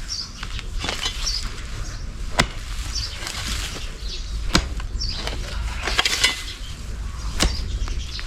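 Sharp clicks and snaps at irregular intervals, several close together about six seconds in, with high bird chirps now and then in the background.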